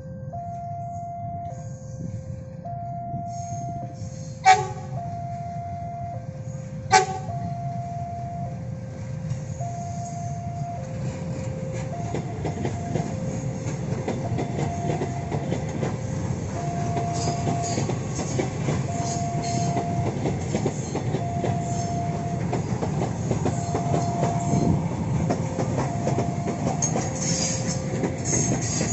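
Level-crossing warning alarm alternating between two tones, changing about every 0.7 s. About 4.5 and 7 seconds in, a KFW i9000 electric commuter train gives two very short, loud horn blasts. From about 11 seconds in, the eight-car train's wheels rumble and clack over the rails, growing louder as it passes close.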